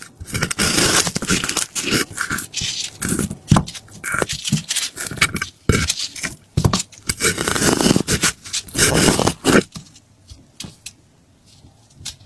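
Irregular bursts of scraping and knocking, which stop about ten seconds in.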